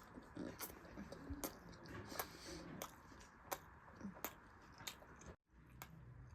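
Close-miked chewing of a momo dumpling: faint, wet mouth sounds with a series of small clicks, breaking off briefly near the end.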